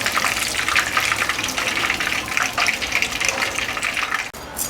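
Cornflour-coated chicken pieces deep-frying in hot oil: a steady, dense sizzle and crackle that cuts off suddenly near the end.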